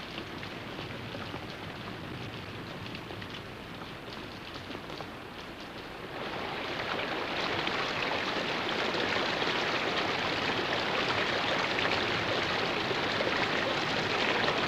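Rain falling and pattering on rainforest leaves; light at first, then about six seconds in it becomes heavier and louder and keeps up steadily.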